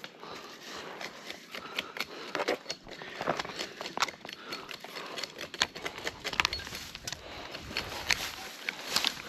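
Twigs and branches snapping and crackling in dense, irregular clicks, as from pruning work among tree branches and slash.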